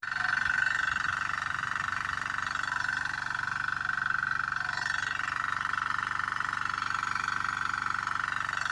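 Diesel engine water pump running steadily at an even speed.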